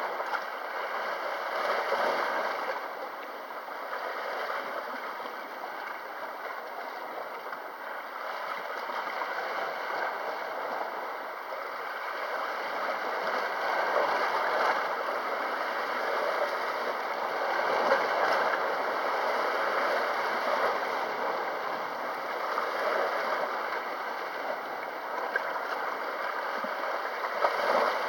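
Sea water washing and gurgling at the shore, swelling and easing every few seconds, with a few small sharp clicks.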